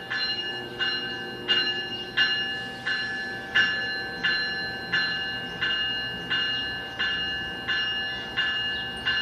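Locomotive bell ringing steadily at a departing train, about one and a half strokes a second, each stroke ringing out before the next.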